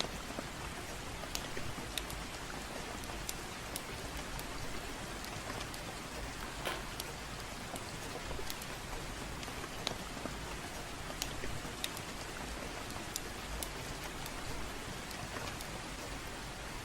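Steady gentle rain, with scattered sharp crackles and pops from a wood fire in a fireplace at irregular intervals.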